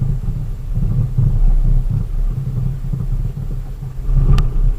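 Steady low engine and road rumble of a delivery vehicle heard from inside the cab, with a single sharp click near the end.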